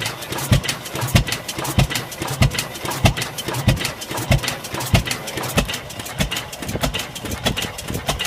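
International Harvester 25 horsepower Titan engine, throttle governed, running at a slow, steady speed. It gives a deep, regular exhaust beat a little under twice a second, with lighter clicks of the valve gear between beats.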